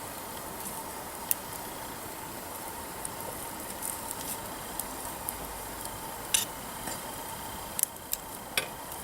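Wood campfire burning, a steady hiss with sharp crackles and pops from the burning firewood at irregular moments, the loudest a little past the middle.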